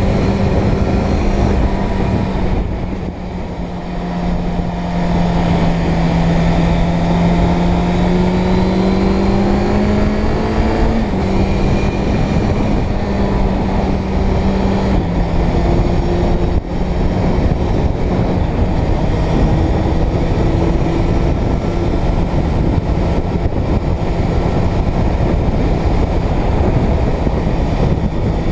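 Inline-four motorcycle engine running under way, with wind rushing over the microphone. The engine note climbs steadily for several seconds, then drops abruptly about eleven seconds in, and steps down again a few seconds later.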